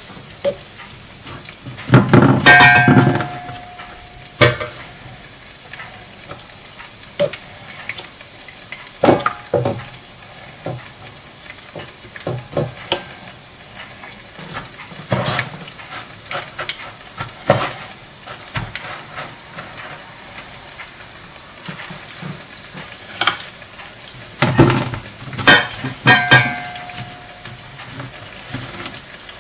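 Breaded chicken nuggets frying in shallow oil, a steady sizzle. Scattered clinks and knocks of bowls and utensils run through it, with two louder clattering bursts, one near the start and one near the end.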